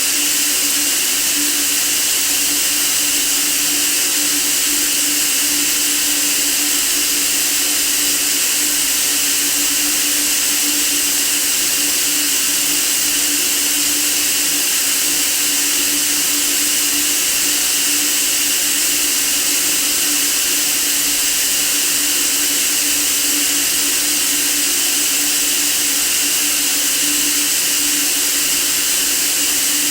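Steady white noise for sleep: an even, unbroken hiss with a constant low hum beneath it, like a running fan or appliance.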